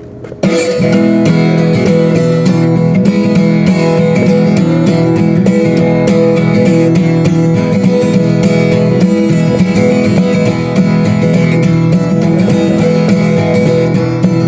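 An acoustic guitar being strummed in a busking performance. It comes in suddenly about half a second in and keeps playing steadily, with no singing.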